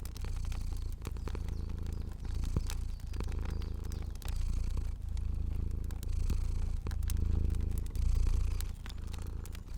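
Cat purring, a low rumble that swells and eases with each breath about once a second, over a fire crackling with scattered sharp pops.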